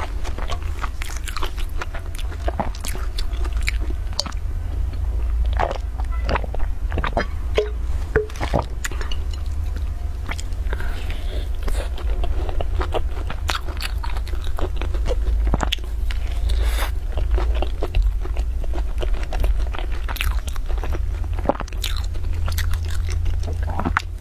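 Close-miked biting, crunching and chewing of a crisp pan-fried flatbread: irregular sharp crackles as the crust breaks and is chewed. A steady low hum runs underneath.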